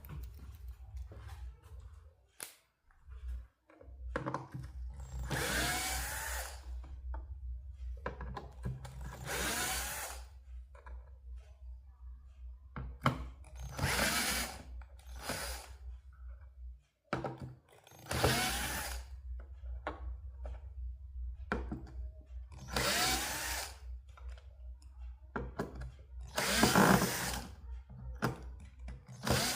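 A small power tool runs in about six short bursts a few seconds apart, its pitch rising and falling within each burst, over a low steady hum.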